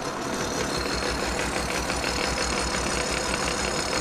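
Kearney & Trecker 2HL horizontal mill taking a cut in cast iron with the cutter on its universal head, a steady cutting noise with a regular low pulse several times a second. The cut is vibrating at a slowed 4.5 inch-per-minute feed, a chatter the machinist later traces to loose clamping nuts on the universal head.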